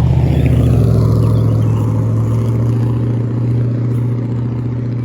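Road traffic: a motor vehicle's engine running close by with a steady low hum, swelling in the first couple of seconds as it passes and then easing off.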